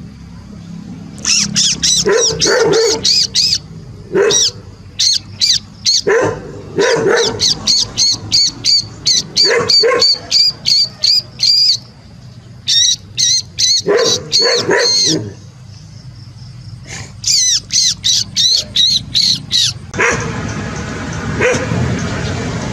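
Puppies yelping in rapid runs of short, high-pitched calls, several a second, in bursts with brief pauses, a few lower yaps mixed in. Near the end the yelping stops and a steady hiss-like noise takes over.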